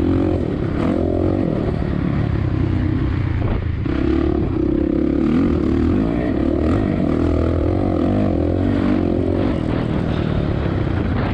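Suzuki RM-Z450 four-stroke single-cylinder dirt bike engine under race load, its revs rising and falling with throttle and shifts, dipping briefly about four seconds in. Wind noise rumbles on the microphone.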